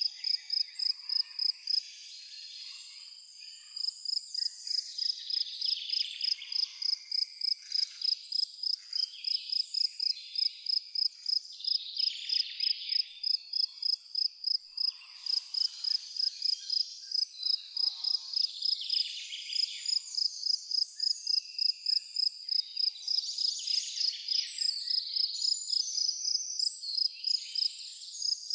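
A cricket chirping steadily at one high pitch, about three chirps a second, pausing briefly a couple of seconds in, over birds singing and calling.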